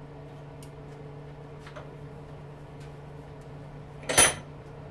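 Small scrap parts and tools handled at a workbench: a few faint ticks, then one short, sharp clack about four seconds in, over a steady low hum.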